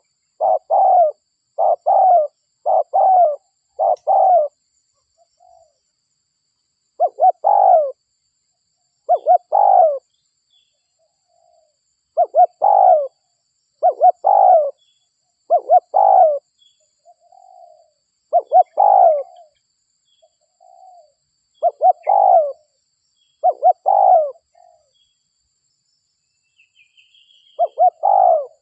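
Spotted dove (derkuku) cooing repeatedly: a quick run of about six coos in the first four seconds, then single coos every one to three seconds, a pause, and a fresh run of coos near the end. Faint high chirps from another small bird sound now and then.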